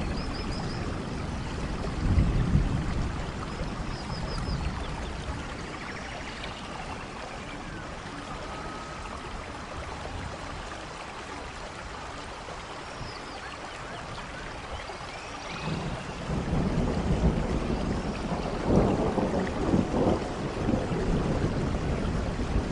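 Steady rain falling on forest leaves and ground, pattering without a break. A low rumble swells up briefly about two seconds in and again through the last third.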